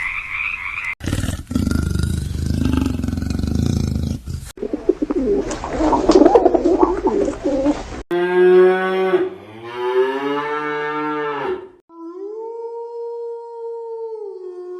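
A string of separate animal sound clips cut one after another, with a cow mooing in a long pitched call a little past the middle. The clips change abruptly every few seconds.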